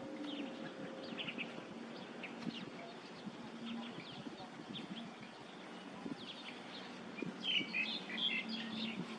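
Small birds chirping, with short high calls scattered throughout and a busier cluster near the end, over a faint low hum.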